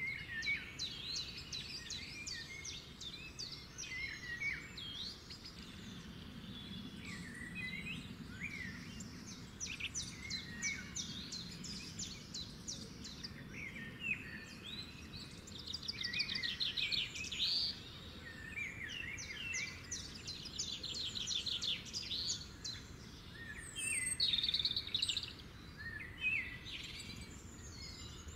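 Several songbirds chirping and singing at once, with fast trills and short whistled notes overlapping.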